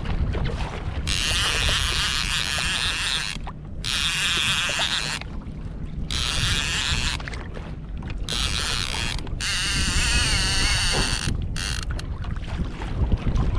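Wind on the microphone and water noise aboard a pedal kayak at sea, with a high-pitched mechanical sound that comes and goes in stretches of a second or more.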